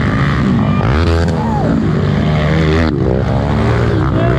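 Off-road trail motorcycle engines revving, the pitch rising and falling repeatedly.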